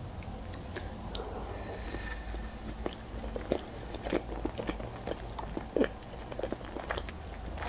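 A person chewing a mouthful of sushi roll: soft, wet mouth clicks and smacks at irregular intervals.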